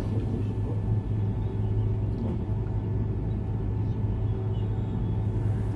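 Steady low electrical hum with faint background noise, unchanging, with no distinct sounds.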